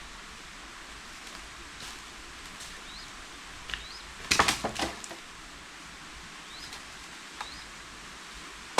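Steady outdoor hiss with a few short, high, rising chirps. About halfway through comes a quick run of loud, sharp knocks or cracks.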